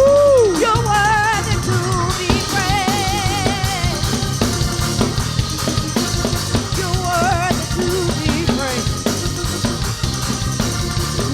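Live gospel band music: a drum kit keeps a steady beat under a lead melody with wide vibrato and quick runs, a rising-and-falling swoop at the start.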